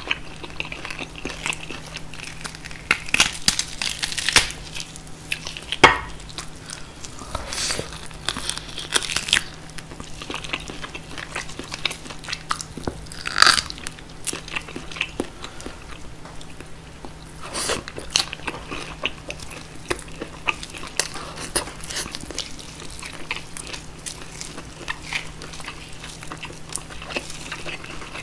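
Close-up chewing and biting of roast pork knuckle (schweinshaxe), with crunches of the roasted crust and wet, sticky mouth sounds. Gloved hands pull the meat apart from the bone. The sharpest crunches come about 6 and 13 seconds in.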